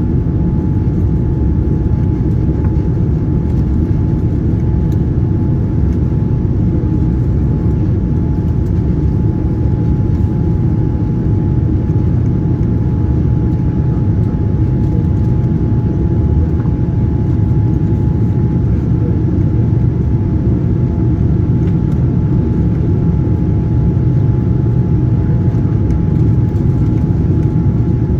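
Steady cabin noise inside a Boeing 787-9 airliner: an even, loud rumble of engines and airflow, with a constant high whine over it.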